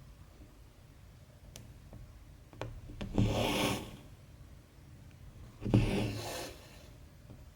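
Embroidery thread being drawn through 14-count cross-stitch fabric: two rasping swishes about two and a half seconds apart, with a few faint ticks before the first.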